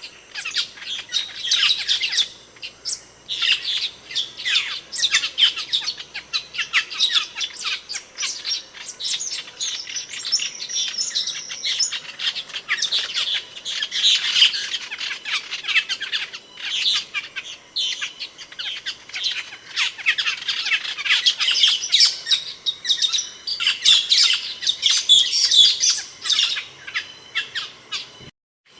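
Asian glossy starlings (cucak keling) calling in a rapid, unbroken stream of sharp, high chirps and squawks. The calls break off briefly near the end.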